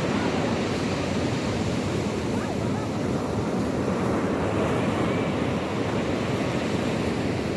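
Sea surf washing steadily onto the shore.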